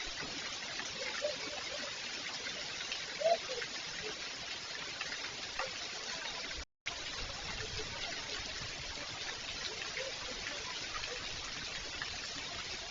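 Rain falling steadily as an even hiss of water, broken by a moment of silence about two-thirds of the way through.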